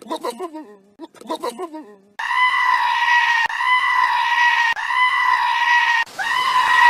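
Goats bleating: two short wavering bleats that fall in pitch, then a long, high, scream-like call repeated four times with brief breaks between.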